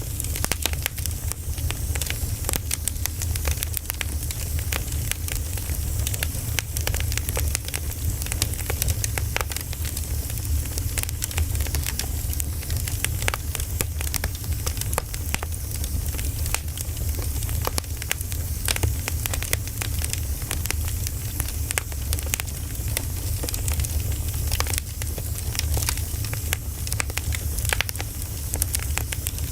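Wood fire crackling, with many irregular small pops over a steady low rumble.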